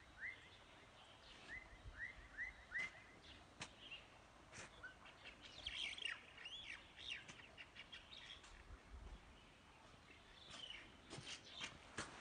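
Small birds chirping faintly. A short upswept note repeats several times in the first three seconds, and a busier burst of twittering comes about six seconds in. A few sharp clicks sound near the end.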